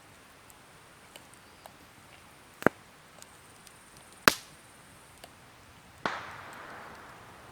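Two sharp clicks a second and a half apart, then a sudden hiss that fades over about a second.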